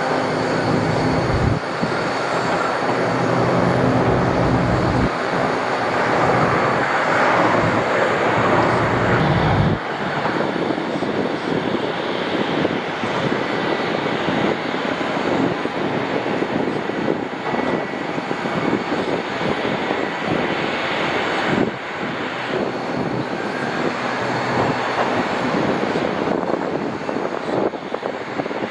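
Airliner jet engines running loud: a dense rushing noise with a low drone underneath for the first ten seconds or so. The sound then changes abruptly to a steadier rushing noise.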